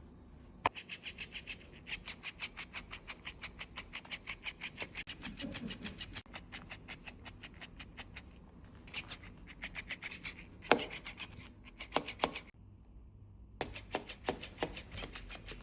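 A cat playing with a fish toy: fast, even, scratchy ticks of about six a second, stopping and starting in short runs, with one sharper tick in the middle.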